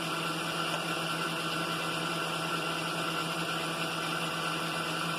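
Milling machine running steadily with a boring head turning at about 250 RPM, taking a light finishing cut: an even low hum with a higher steady whine over it, unchanging.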